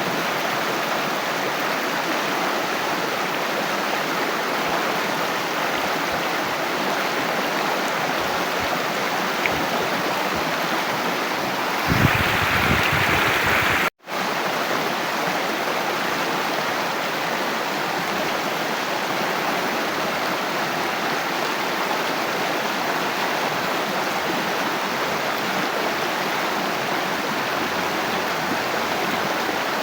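Flowing water rushing steadily. About twelve seconds in it grows louder and fuller for about two seconds, then cuts out for an instant and resumes unchanged.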